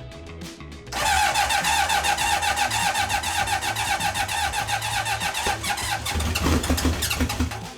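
Honda CB750 inline-four being cranked on its electric starter, which starts about a second in and runs in a fast, even rhythm until near the end, with brake and clutch cleaner as starting fluid because fuel isn't reaching the carburettors. The engine doesn't catch and run.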